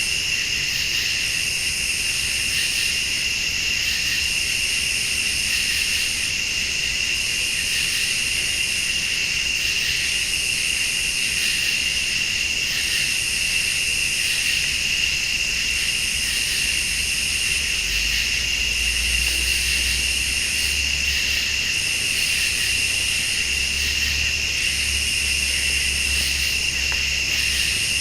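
Night insect chorus: crickets trilling steadily, with a higher-pitched insect call pulsing on and off about every two seconds. A faint low rumble comes in during the second half.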